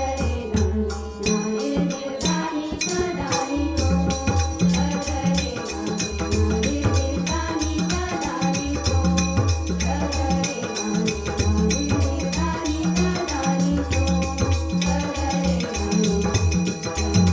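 Marathi devotional bhajan music: a hand drum keeps a steady beat under jingling, rattling percussion, with a melody line running over it.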